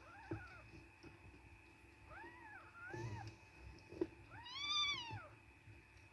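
Five-day-old kittens mewing: four short, high cries that rise and fall in pitch, the last one longest and loudest. A sharp click about four seconds in.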